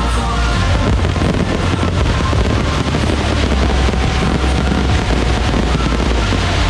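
Dense fireworks barrage: a continuous mass of crackling and popping over a deep, steady rumble of booms.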